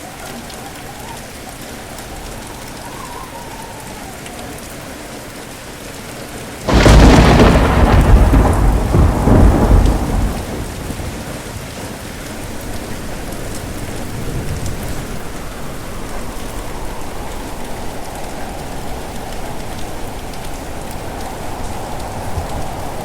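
Steady rain, broken about seven seconds in by a sudden loud thunderclap that rumbles for three or four seconds before the rain carries on alone.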